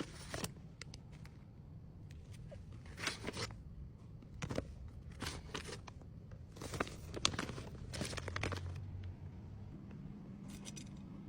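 Faint, scattered rustling, scraping and soft clicks of small accessories and packaging being handled during order packing.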